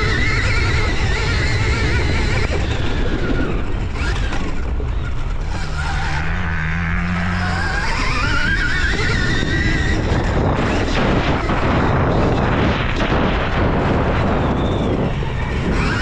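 Stark Varg electric dirt bike's motor whining, its pitch rising and falling again and again as the throttle is worked, over steady wind and track noise.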